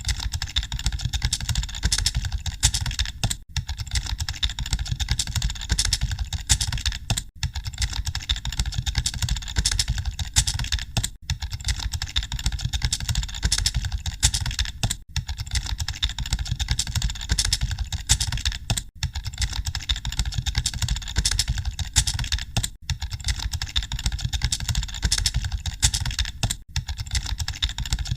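Many computer keyboards being typed on at once, a dense, continuous clatter of key clicks like a hall full of candidates sitting a typing test. The level dips briefly about every four seconds.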